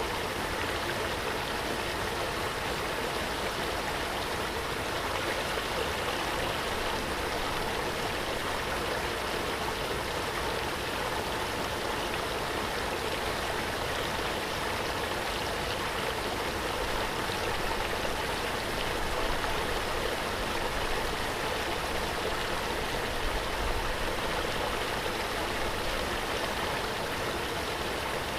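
Waterfall: water falling and splashing in a steady, even rush with a low rumble underneath.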